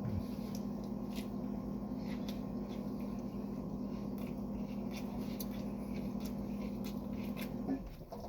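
Light clicks and rustles of takeout food being handled and eaten over a steady low hum that cuts out near the end.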